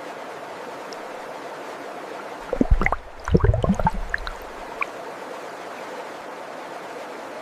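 Stream water flowing steadily, with a brief, louder run of gurgling and splashing plops about two and a half seconds in that dies away within two seconds.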